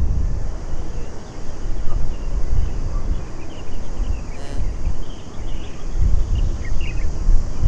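Wind gusting on the microphone: an uneven low buffeting that rises and falls.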